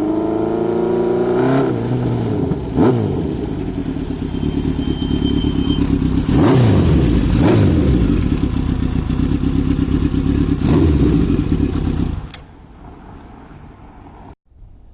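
Honda CB900F's 16-valve four-cylinder engine idling and being blipped several times, the revs rising and dropping back each time. It stops abruptly about twelve seconds in.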